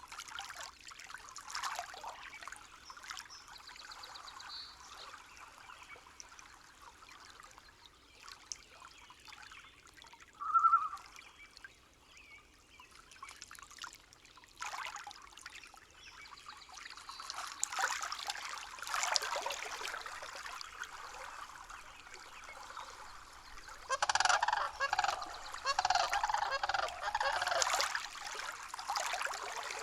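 Nature-sound ambience: faint water trickling under intermittent bird calls, one short call about ten seconds in and a cluster of louder calls near the end.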